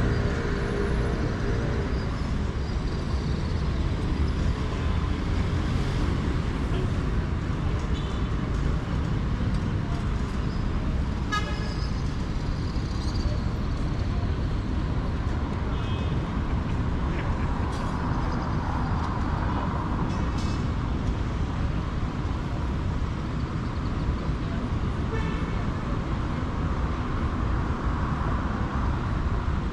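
City street traffic: a steady rumble of engines and tyres, with a few short car-horn toots.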